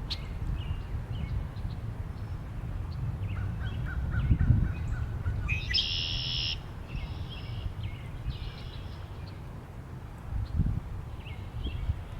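Birds calling over a steady low wind rumble. There is a run of quick repeated notes just before the middle, then a loud harsh call about six seconds in, followed by two softer calls of the same kind.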